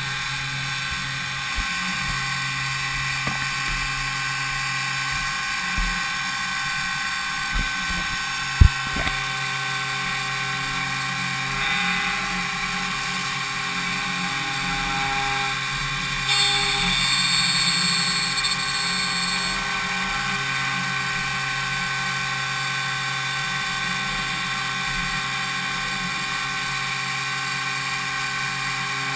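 DMU 70V five-axis CNC milling machine cutting impeller blades: a steady high-pitched spindle whine made of many held tones. A sharp click sounds about eight and a half seconds in, and extra higher tones join for a few seconds past the middle.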